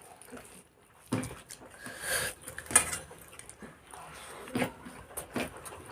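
Soft eating sounds from people eating chicken and rice: a few sharp clicks and knocks, about three spread through, with a short rustle in between.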